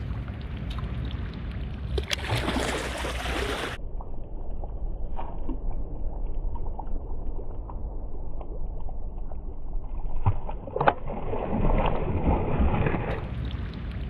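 Water sloshing and splashing in two short spells, about two seconds in and again near the end, over a steady low rumble.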